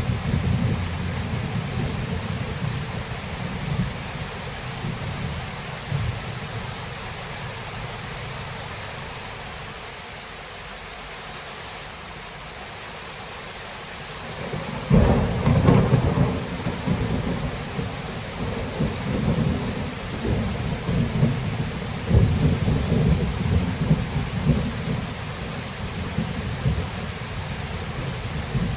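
Thunderstorm: steady heavy rain, with low thunder rumbling that dies away, then a sudden loud thunderclap about halfway through, followed by rolling rumbles.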